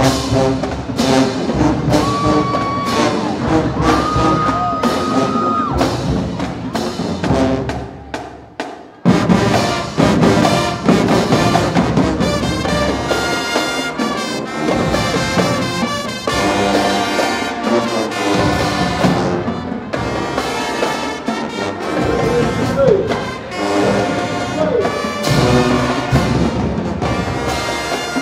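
High school marching band playing a dance tune, trumpets and trombones over a driving drum beat. The band drops off briefly around eight seconds in, then comes back in loudly.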